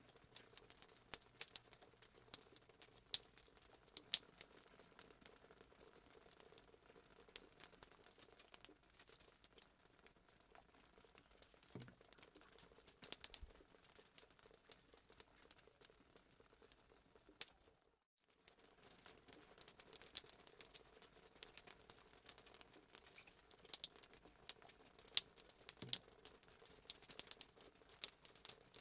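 Fireplace sound effect: a wood fire crackling faintly, with many small sharp pops and snaps. It cuts out completely for a moment about 18 seconds in.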